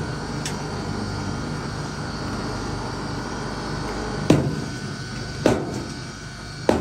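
A steady engine hum, with three sharp wooden knocks about a second apart in the second half, from firewood being split or handled.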